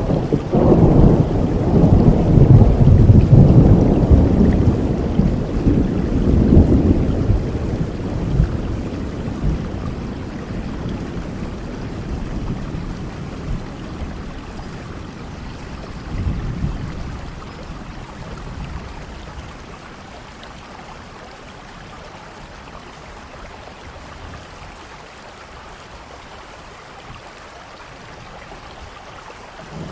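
Thunderstorm: a long roll of thunder rumbles loudly over the first several seconds and slowly dies away, with a smaller rumble about halfway through, over steady heavy rain.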